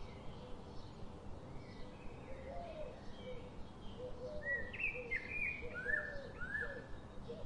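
Birdsong: several birds chirping and calling over a steady background hiss, with a run of louder, downward-sliding chirps past the middle.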